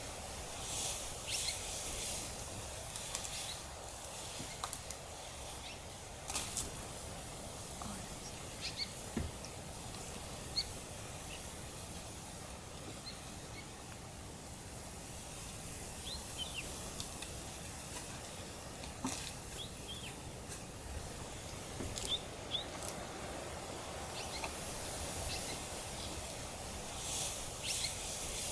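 Open African bush ambience: a steady background hiss with scattered short, high bird chirps and a few brief clicks or snaps.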